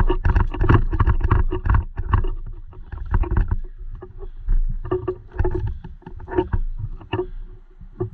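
Irregular clatter of knocks and rattles, loudest in the first two seconds.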